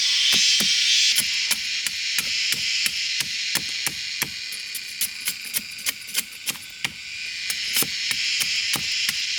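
Rapid, even strikes of a tool on a hard material, about three a second, like hammering or chopping, with a steady high hiss behind.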